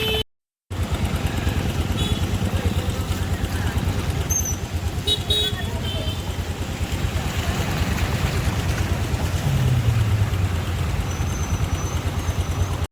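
A motor vehicle engine running close by, with a steady fast pulsing, and its pitch dropping briefly about ten seconds in.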